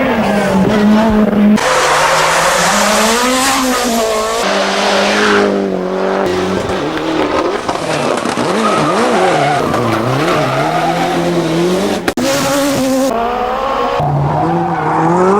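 Rally car engine at speed, its revs rising and falling through gear changes, with a rush of tyre and surface noise a couple of seconds in. The sound breaks off suddenly about twelve seconds in and an engine carries on after the cut.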